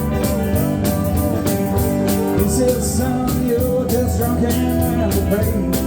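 Live country-rock band playing an instrumental stretch between vocal lines: electric guitars over bass and a steady drum beat.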